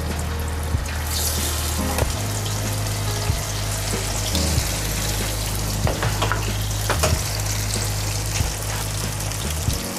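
Batter-coated eggplant slices frying in hot oil in a frying pan: a steady, loud sizzle that swells about a second in as more slices go into the oil, with a few scattered light taps.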